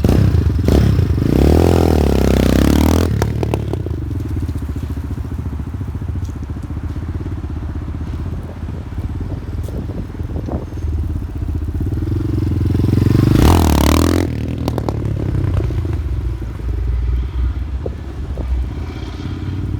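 250cc RTR cruiser motorcycle engine idling through its 1-into-2 exhaust, blipped twice: the revs rise about a second in and again about thirteen seconds in, then drop back to a steady idle.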